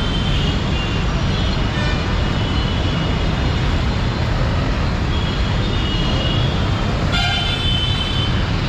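Busy road traffic of motor scooters and auto-rickshaws with a steady rumble, and vehicle horns honking now and then, most clearly about five and seven seconds in.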